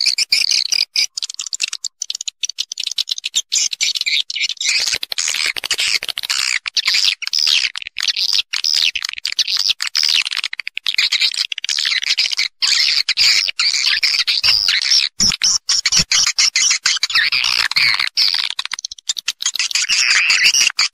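Many edible-nest swiftlets twittering in a dense, unbroken chatter of rapid high chirps. This is a swiftlet roosting lure call, the kind played in swiftlet houses to draw the birds in to nest.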